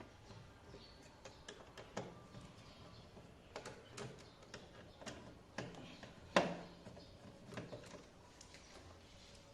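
Scattered light clicks and knocks of hand work on an air-conditioner indoor unit being installed, with one louder knock about six and a half seconds in.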